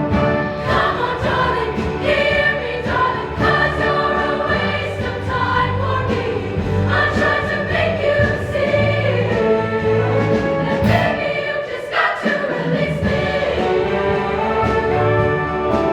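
Show choir singing in parts over an accompanying band, in a live performance.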